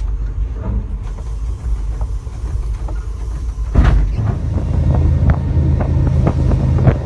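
Diesel freight locomotive running with a steady low rumble, heard from inside the cab. A sharp knock comes about four seconds in, after which the rumble is louder and a few lighter clicks and rattles follow.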